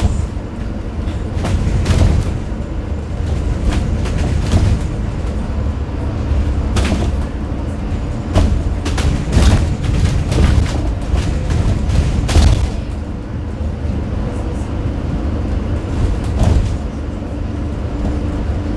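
Scania N250UD double-decker bus under way, heard from the top deck: a steady low rumble from its five-cylinder diesel engine and the road, with frequent sharp knocks and rattles from the bodywork and fittings.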